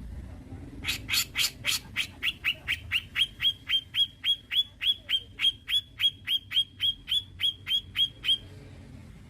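Cucak jenggot (grey-cheeked bulbul) calling: a long, fast series of about two dozen short, sharp, high-pitched notes, evenly spaced at about four a second, that stops a second before the end.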